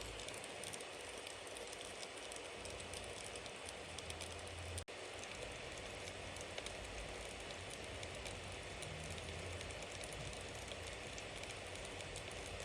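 Bonfire burning: a steady hiss with many small crackles and pops from the burning wood. The sound drops out for an instant a little under five seconds in.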